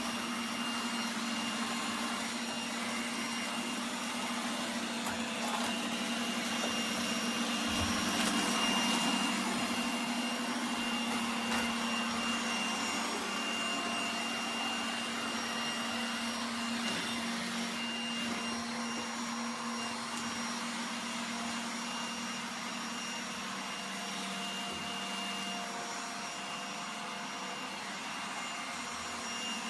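Robot vacuum cleaner running steadily: a continuous suction-motor hum and brush noise with a constant high whine over it.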